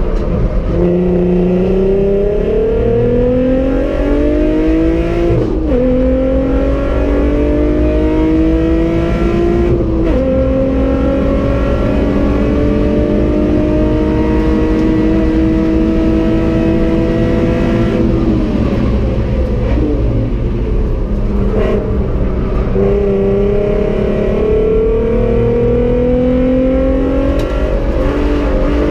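Volkswagen Golf IV R32's 3.2-litre VR6 engine, heard from inside the cabin at full throttle. The revs climb and drop back at upshifts about five and ten seconds in, then make a long pull at high speed. The note falls off with braking and downshifts around eighteen seconds in, then climbs again through the gears.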